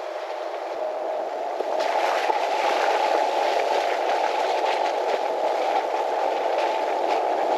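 A creek's water rushing steadily, growing louder in the first two seconds.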